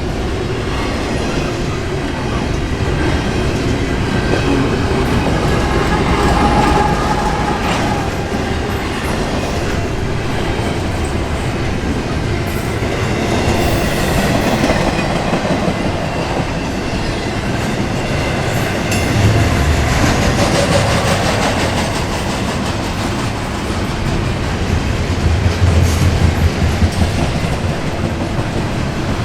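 Freight cars of an intermodal container train rolling past, a continuous rumble and clatter of steel wheels on the rails, swelling louder twice in the second half.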